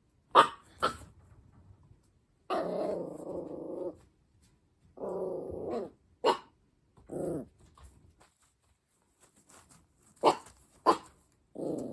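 Black Shiba Inu puppy crying in its cage in the dark: short sharp yelps mixed with longer drawn-out cries, the longest about a second and a half, with quiet gaps between. The crying is the puppy's distress on its first night in a new home, which the owners put down to the change of surroundings.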